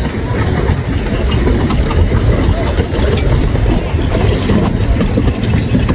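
Horse-drawn wagon rolling, a steady rumble with light rattling and clatter.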